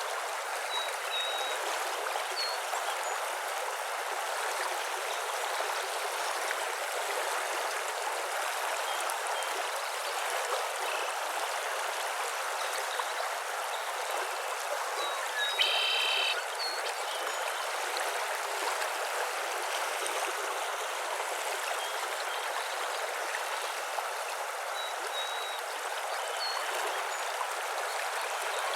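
Steady rushing of running water, with scattered faint bird chirps and one louder bird call about halfway through.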